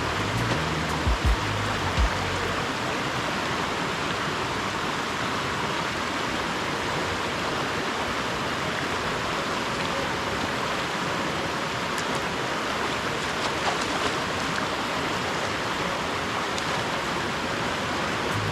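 Rushing water of a stream: a steady, even hiss of flowing water.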